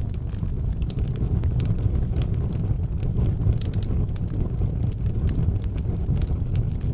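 Wood fire burning in an outdoor fireplace: a steady low rumble with frequent sharp crackles and pops.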